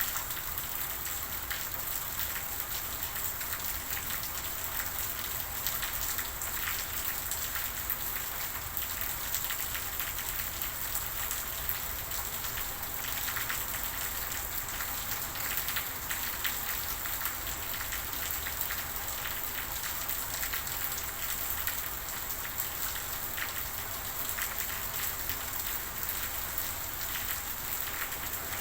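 Steady rain falling, a continuous hiss dotted with many small drop taps.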